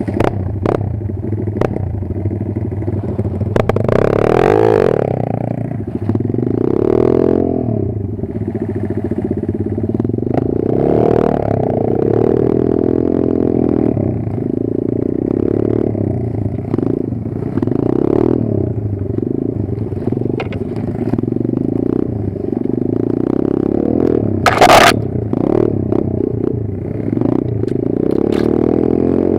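Kayo 140 pit bike's single-cylinder four-stroke engine running under changing throttle, its pitch rising and falling again and again. Clattering knocks come throughout, with one sharp, loud hit near the end.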